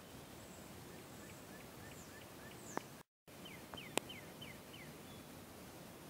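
Faint outdoor ambience with a small bird chirping: a run of short rising notes, then after a brief dropout in the sound about five quick falling notes. Two sharp clicks stand out as the loudest sounds.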